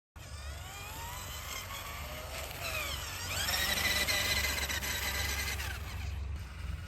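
Small electric motor of an RC toy tractor whining, its pitch rising repeatedly as it speeds up. Near the middle it sweeps up to a steady high whine for a couple of seconds, then eases off.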